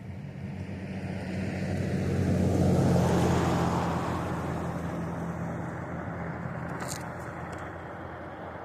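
A car passing by, its engine and tyre noise swelling to a peak about three seconds in and then slowly fading away.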